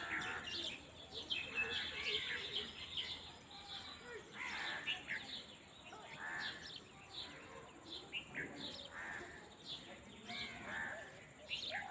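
Rural birdsong: many birds calling at once in short chirps and caws, one call after another.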